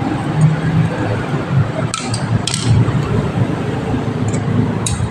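A few sharp metal clinks, as of hand tools on motorcycle engine parts, over a steady low rumble.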